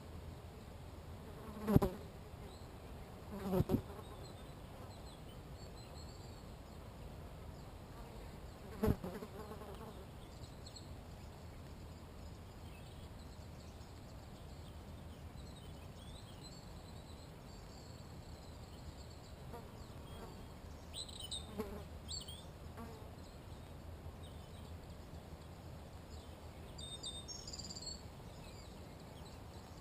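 A fly buzzing briefly past the microphone three times in the first nine seconds, over faint scattered bird chirps later on.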